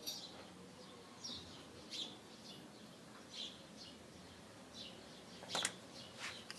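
Faint chirps of a small bird, short high notes repeating every second or so, with a brief click about five and a half seconds in.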